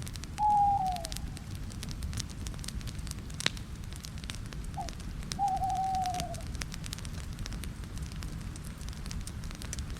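Campfire crackling with scattered pops and a sharp pop about three and a half seconds in, over a low steady rumble. A bird calls twice: a short falling call near the start and a longer, wavering one past the middle.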